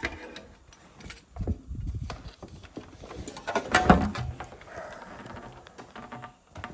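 Scattered knocks, clicks and clatter of hand tools and a clamp being handled and set down, with a louder knock about four seconds in.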